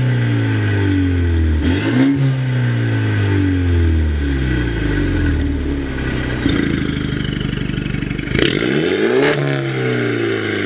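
BMW 530i's 2.0-litre turbocharged four-cylinder through an ARMYTRIX valved exhaust, revved and let fall: a sharp blip about two seconds in that winds down slowly to a steady idle, then two quick blips in a row near the end.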